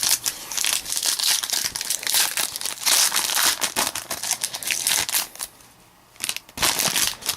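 Trading-card pack wrapper being torn open and crinkled by hand, with a pause of about a second near the end before more crinkling.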